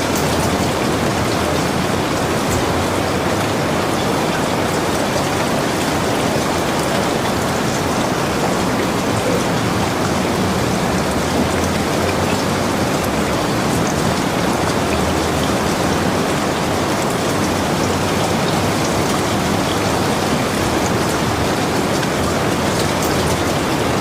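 Steady rain falling, an even hiss with the patter of drops.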